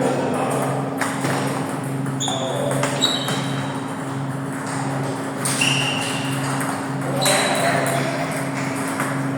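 Table tennis rally: the celluloid ball clicking sharply off bats and table, with a few short high squeaks, over a steady hum with a low throb that pulses on and off.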